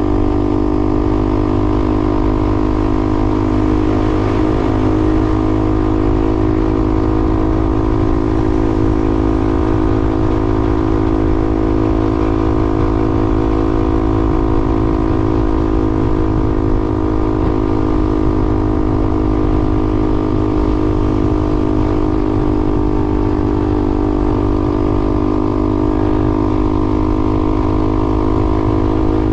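A vehicle's engine running at a steady, unchanging pitch over a low rumble.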